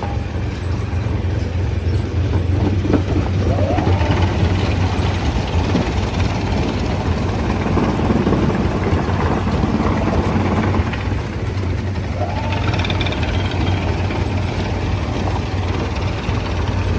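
Heavy machinery engine running steadily with a deep, even hum. Two short rising whines come through, one about three seconds in and one about twelve seconds in.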